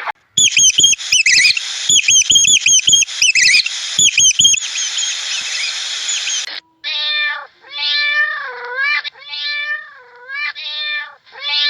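Rapid high-pitched chirping squeaks with sharp clicks for about six seconds, then, after a cut, a cat meowing again and again, one drawn-out meow about every second.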